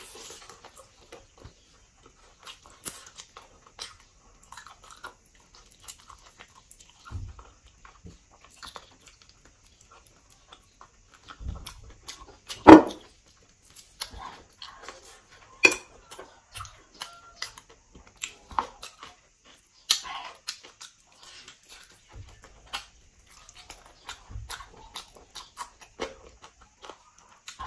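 Close-up mouth sounds of eating braised pork leg: wet chewing, smacking and sticky little clicks, with one loud mouth sound about halfway through and a couple of sharper ones after it.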